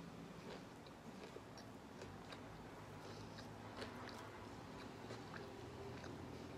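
A person biting into and chewing a spicy fried chicken sandwich, with faint, scattered wet clicks of chewing.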